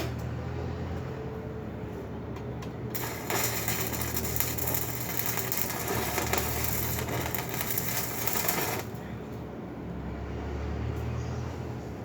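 Electric arc welding on a foundation bolt: the arc is struck about three seconds in and crackles and sizzles for about six seconds before it stops suddenly. A steady low hum runs underneath.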